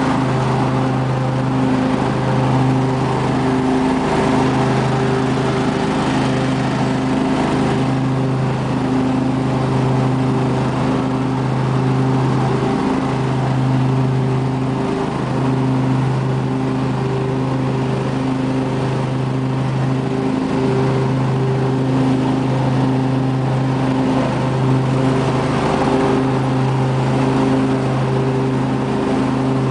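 24 HP Briggs & Stratton V-twin engine of a 2005 Husqvarna lawn tractor running steadily at a constant speed.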